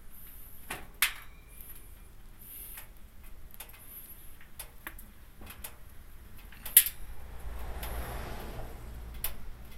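Wood fire crackling and popping inside a stainless-steel drum-can wood stove: scattered sharp pops, the loudest about a second in and just before 7 s. A low rumble comes in from about 7 s.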